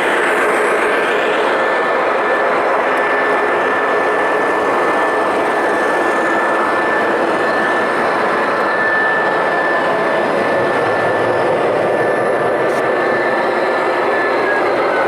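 O scale model train running on the layout: a steady rumble of wheels on track with a thin, steady high whine.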